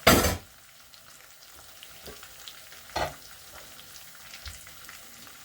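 Food frying in a pot, a faint sizzle with small crackles. There is a loud brief clatter right at the start and a smaller one about three seconds in.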